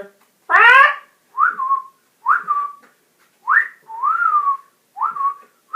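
A person imitating a parrot: one short raspy squawk, then a run of about seven short whistles. Each whistle swoops up quickly and then settles back down to a held note.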